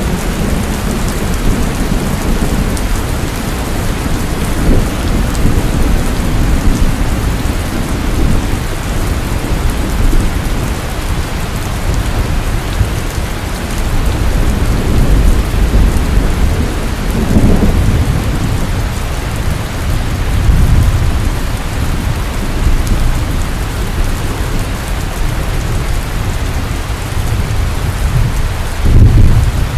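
Heavy rain pouring steadily, with low thunder rumbling that swells and fades, and a louder roll of thunder near the end.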